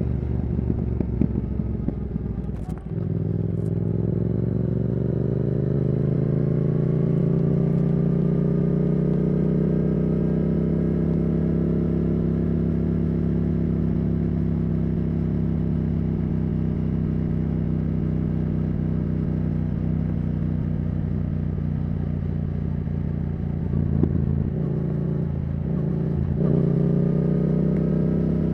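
Yamaha R7's CP2 parallel-twin engine through a Yoshimura R77 exhaust, riding under way. There is a brief dip in the note about three seconds in; the pitch then climbs gradually and holds steady at a cruise. The note is unsettled again briefly over a couple of seconds in the later part, and it rises once more near the end.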